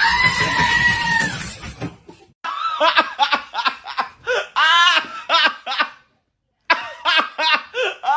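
A loud, noisy sound with a held high tone for about two seconds, then a person laughing hard in quick repeated bursts. After a brief break near the end, the laughing goes on.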